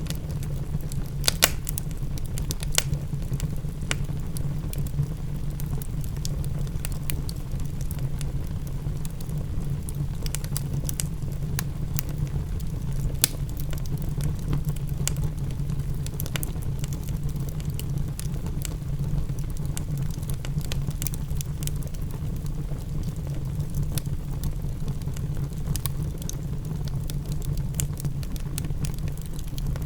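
Wood fire crackling, with frequent sharp pops scattered irregularly over a steady low rumble, mixed with the patter of rain.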